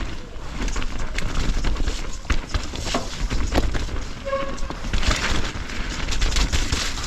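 Mountain bike riding over rough trail: the tyres roll and knock over roots and rocks, and the chain and frame rattle in quick clicks. A heavy low rumble of wind and jolting runs underneath on the bike-mounted action camera.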